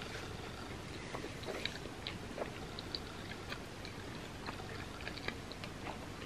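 Close-miked chewing with the mouth closed: scattered small wet clicks and smacks of food being chewed.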